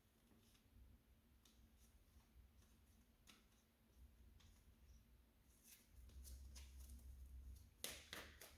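Near silence with a few faint clicks, then a quick run of louder clicks and taps near the end: tarot cards being handled and laid down.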